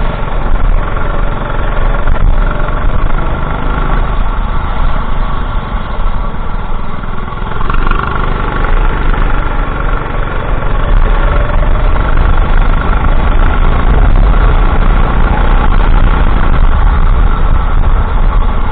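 Racing kart engine running hard, its pitch rising and falling as the kart accelerates out of corners and lifts off for the next, with a heavy low rumble beneath.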